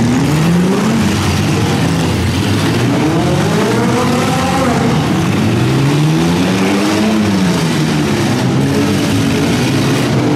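Several six-cylinder demolition-derby car engines revving hard at once, their pitches rising and falling in overlapping sweeps as the cars spin and shove through the mud.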